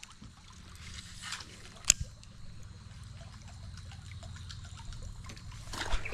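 Creek water trickling and lapping, with a single sharp knock about two seconds in.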